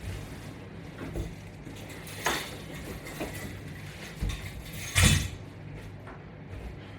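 A handful of short knocks and clatters, the loudest about five seconds in, over a steady low hum.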